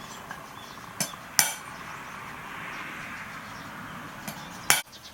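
Metal clinking and knocking: sharp metallic strikes about a second in, again just after, and a loud one near the end, over a steady hiss.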